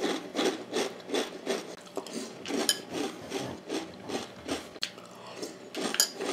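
A person chewing a mouthful of crunchy corn-based cereal with marshmallows in milk, a steady crunching about three times a second.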